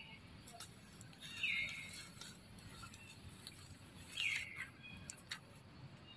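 A bird calling twice, each a short chirp falling in pitch, about a second and a half in and again about four seconds in, with a few faint clicks over quiet outdoor background.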